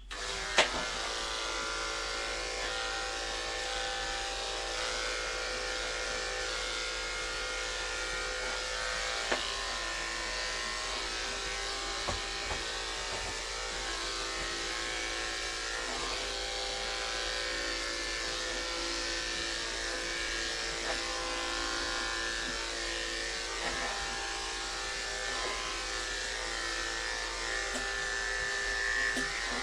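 Andis electric clippers running steadily while shaving a matted cat's coat.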